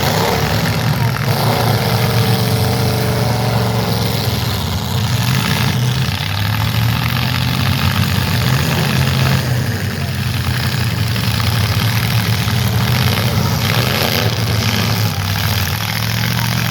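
Demolition derby cars' engines running loud and steady, with a few sudden knocks or bangs scattered through.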